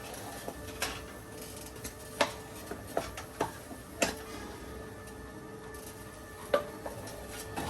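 A utensil knocking and clinking against a cooking pot as fufu is worked and served, in a few irregular sharp knocks over a faint steady hum.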